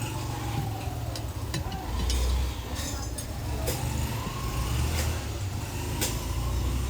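Low steady engine rumble that swells a little about two seconds in, with a faint tone above it that slowly rises and falls and a few sharp clicks.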